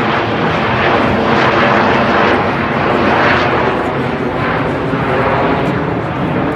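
Blue Angels F/A-18 jet engines roaring through a flyby, swelling loudest about one to three seconds in and easing toward the end.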